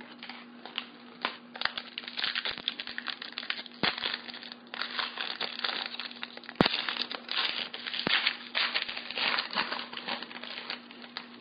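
Foil wrapper of a trading card pack being torn open and crinkled, a dense crackling that runs on for about ten seconds, with one sharp snap about six and a half seconds in.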